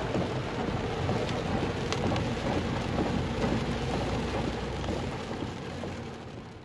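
Heavy rain pouring down, a dense steady hiss with a low hum underneath, fading out near the end.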